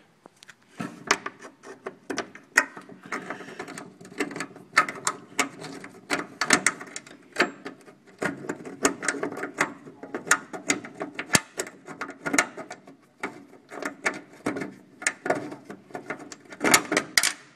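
Rapid, irregular metallic clicking and clinking of a hand wrench working on the radiator mounting bolts of a 1967 Jeep M715.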